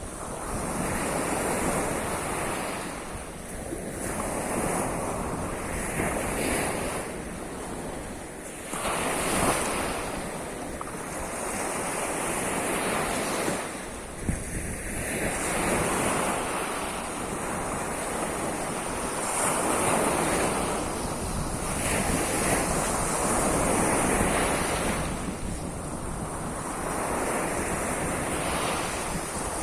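Surf of the Sea of Azov washing onto the shore, swelling and fading every few seconds as the waves break, with wind noise on the microphone.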